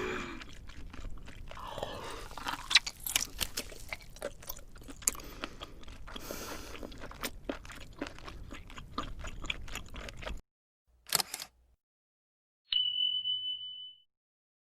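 Close-miked eating sounds: crunchy bites and chewing with many sharp crisp clicks, cutting off suddenly about ten seconds in. Near the end come a short burst of noise and then a steady high beep lasting about a second.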